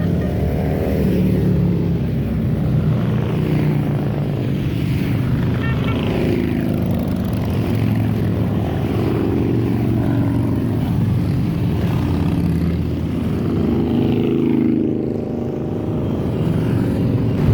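A steady stream of motorcycles riding past, several engines running at once and overlapping, their pitch rising and falling as each bike goes by.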